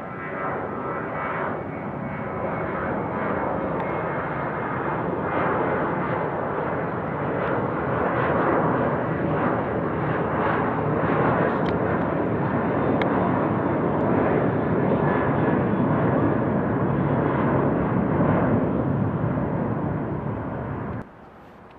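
Jet airliner engines at takeoff power during departure, a loud roar that builds over several seconds and then holds steady. It cuts off suddenly near the end.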